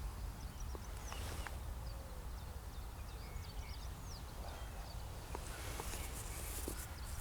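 Small birds chirping repeatedly in short, high, falling notes, over a low rumble of wind on the microphone, with a few faint clicks.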